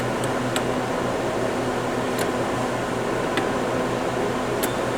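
A steady mechanical hum with a low buzz under an even hiss, broken by a few faint sharp clicks.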